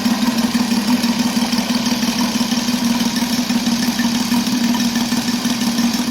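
Saito FG-33R3 three-cylinder four-stroke petrol radial model aircraft engine running steadily through a homemade copper-tube ring exhaust, holding an even pitch with no change in speed.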